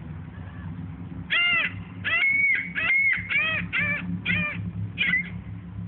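Seagulls calling: a quick series of about eight sharp, arching squawks, one of them drawn out longer, beginning a little over a second in.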